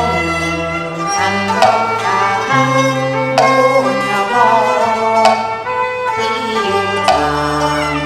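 Cantonese opera instrumental accompaniment: bowed strings carry a wavering melody over held bass notes, with a sharp beat about every two seconds.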